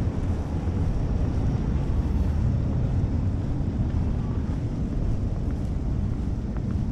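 Wind buffeting the microphone in a snowstorm, a steady low rumble over the faint noise of a city street.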